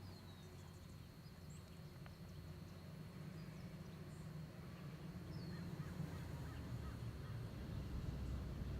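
Faint outdoor background: a steady low rumble that slowly grows louder, with a few faint, short, falling bird chirps, one at the start and one about halfway through.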